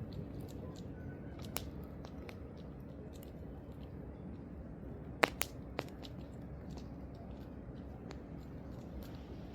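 Campfire burning, wood crackling with scattered sharp pops; one loud pop about five seconds in, followed by two smaller ones.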